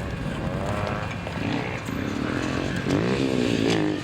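A vehicle engine running and being revved, its pitch rising and falling for about a second near the end.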